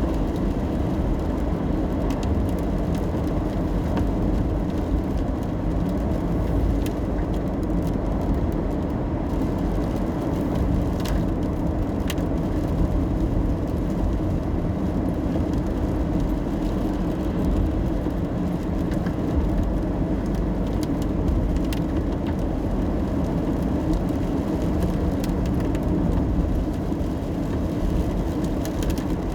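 Steady low rumble of a car driving on a wet road, heard from inside the cabin: tyre and engine noise, with a few faint ticks.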